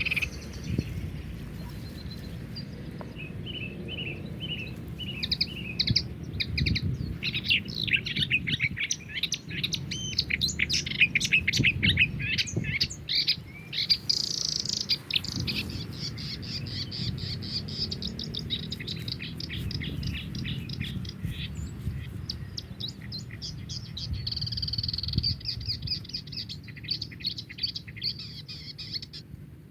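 Wild songbirds chirping and singing, with fast runs of repeated chirps and trills, several birds overlapping. A steady low rumble sits underneath.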